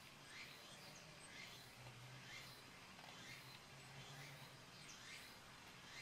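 Near silence: faint outdoor ambience with small bird chirps repeating about twice a second over a low hum.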